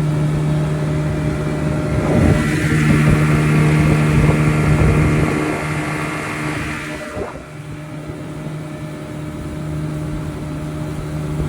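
Two-stroke outboard motor running, revved up about two seconds in and held for several seconds before dropping back to a steady idle. Its running is taken as a sign that it needs new spark plugs.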